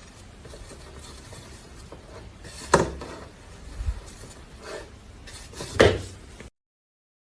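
Rubbing and clattering noise with two sharp knocks about three seconds apart, cutting off abruptly.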